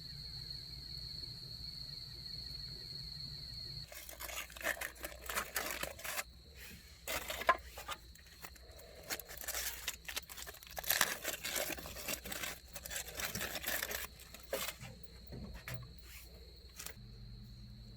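Crickets trilling in a steady high tone, broken for most of the stretch by irregular crackling and rustling clicks, with the trilling back near the end.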